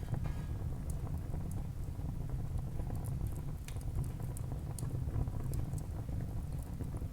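Wood fire crackling in a fireplace: irregular small pops and snaps over a steady low rumble of the burning fire.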